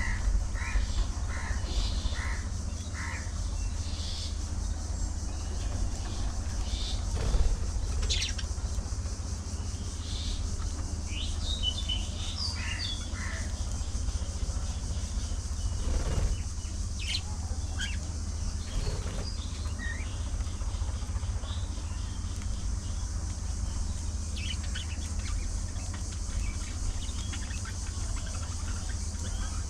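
Budgerigars chirping and chattering in short, scattered calls over a steady low rumble, with a couple of louder brief knocks.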